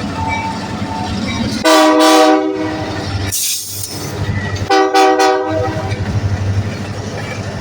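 Locomotive air horn sounding two blasts, each about a second long, over the steady rumble of the passing train. A brief hiss comes between the blasts.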